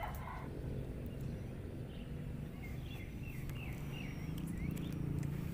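A bird calling in a quick run of short chirps in the middle, over a steady low rumble.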